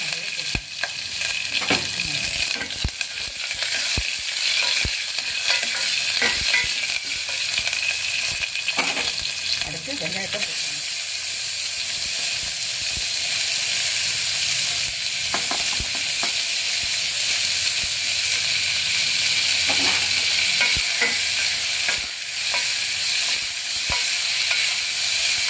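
Hot oil sizzling steadily in a stainless steel pressure cooker as green chillies and whole spices fry, with chopped onions tipped in about halfway, then stirred with a wooden spoon, its taps and scrapes against the pan scattered through the sizzle.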